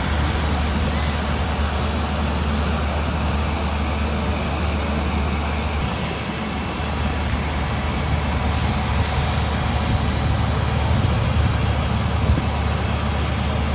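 Steady drone of a propeller aircraft's engines, with a strong low hum under an even rushing noise, swelling slightly in the second half.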